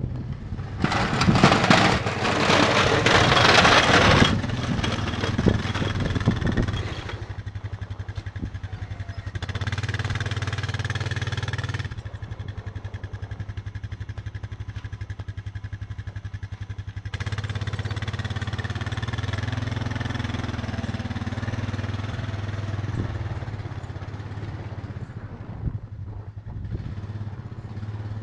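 An engine running steadily at a constant speed, with a loud rushing noise over it for about three seconds near the start.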